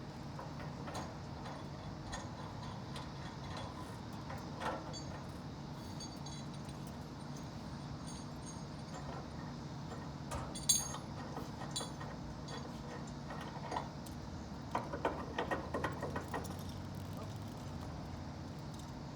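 Steady low machine hum with scattered metallic clinks and knocks, a sharp one about halfway through and a quick run of them near the end.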